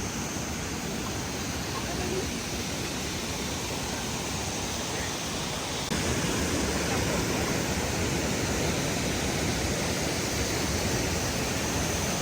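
Waterfall rushing, a steady hiss of falling water that gets a little louder about six seconds in.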